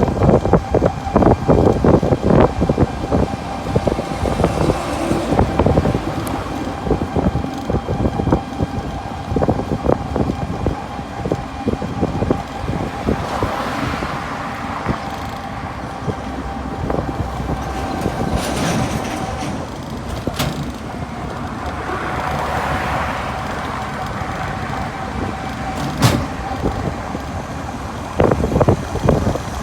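Wind buffeting the microphone on a moving open-backed three-wheeled pedicab, with a steady whine and the rise and fall of passing road traffic. The buffeting is heaviest at the start and again near the end.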